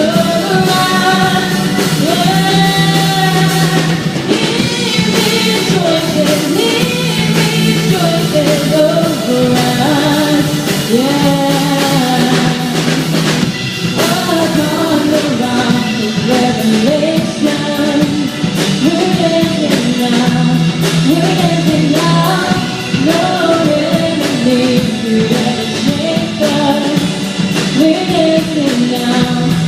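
Live worship band playing a rock-style worship song: voices singing without clear words over drum kit, guitar and long held low notes.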